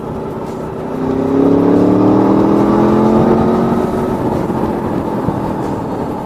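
Aprilia Tuono V4 motorcycle's V4 engine accelerating: from about a second in its pitch climbs and it gets louder for a couple of seconds, then it eases off. A steady rushing noise runs underneath.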